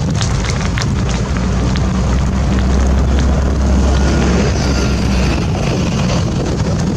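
Wind buffeting the microphone with a heavy low rumble over the noise of a vegetation fire, with sharp crackles in the first second or so.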